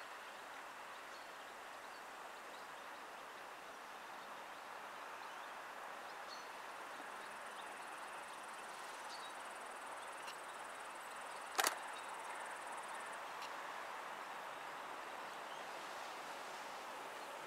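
Faint, steady rumble of a distant train approaching, slowly growing louder, with insects chirping high above it and a single sharp click about two-thirds of the way through.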